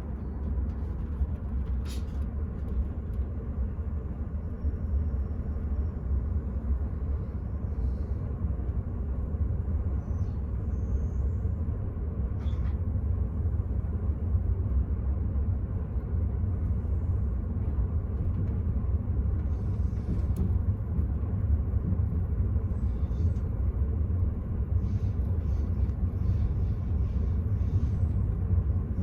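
Steady low rumble of the Enterprise passenger train running, heard from inside the carriage, with a few faint clicks and rattles over it.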